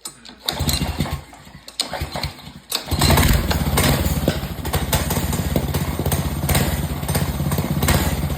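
Honda GC190 single-cylinder four-stroke engine on a mini bike starting up. It fires briefly about half a second in, drops back, then comes up about 3 s in and runs steadily. The throttle is still unadjusted, its cable not yet mounted.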